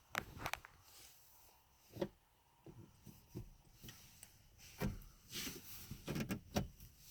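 Faint, irregular taps and knocks, a dozen or so scattered over several seconds, with a few louder ones about two seconds in and near five and six and a half seconds.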